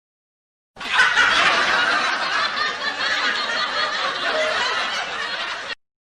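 Laughter sound effect, starting about a second in and cutting off abruptly near the end.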